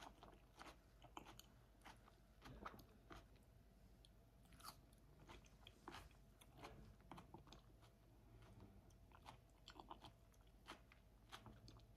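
Faint close-up chewing of a spoonful of salad with ranch dressing, mouth closed: soft, irregular crunching and small wet clicks.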